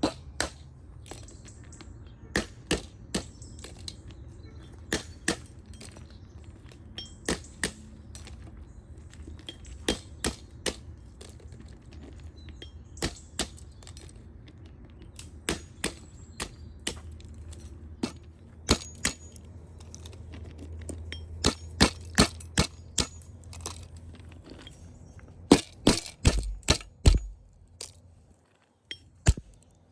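A run of sharp knocks and clicks at irregular intervals, often in quick pairs or small clusters, a few ringing briefly, over a low steady rumble; the knocks come thickest and loudest near the end as the rumble drops away.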